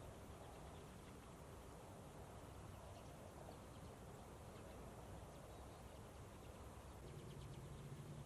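Faint, scattered short calls of a feeding flock of common redpolls over a quiet background; a low hum comes in near the end.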